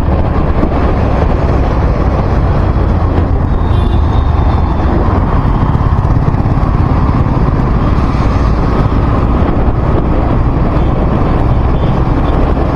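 Steady loud rumble of a vehicle driving along a road, with the noise of moving air on the microphone.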